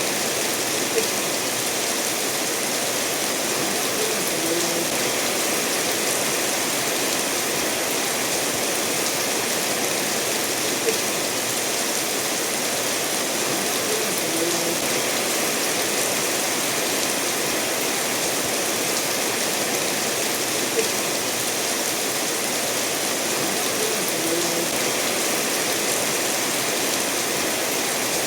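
Steady rain falling with a stream running over stones: an even hiss and rush of water, with three brief drip-like plops about ten seconds apart.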